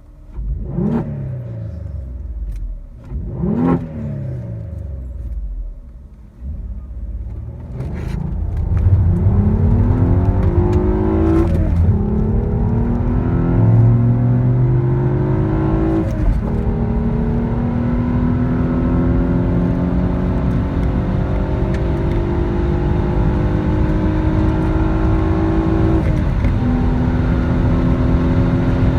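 Peugeot 406's 3.0 V6 with an open air filter, strong induction sound: two short throttle blips, then a full-throttle run through the gears, the engine note climbing in each gear and dropping at three upshifts.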